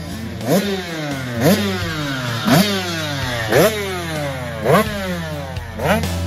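Two-stroke 85cc motocross bike engine revved in quick throttle blips, about once a second, six in all: each time the pitch shoots up and then falls away more slowly.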